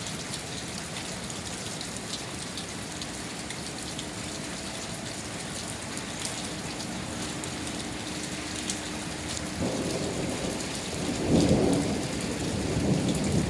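Steady rain hissing down, with scattered drops ticking sharply on a nearby surface. About ten seconds in, a low rumble of thunder builds, loudest a couple of seconds later, then eases off.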